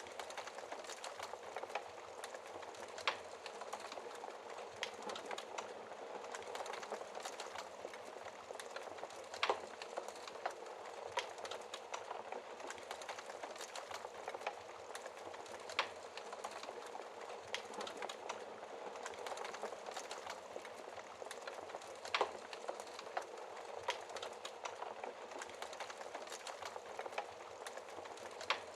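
Wood fire crackling in a fireplace: a steady hiss of burning with irregular small snaps and a few sharper pops.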